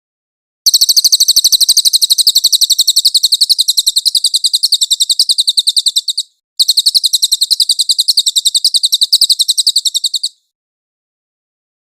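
A cililin singing two long, fast trills of high repeated notes, about ten a second. The first lasts about five and a half seconds; the second starts after a brief pause and lasts nearly four.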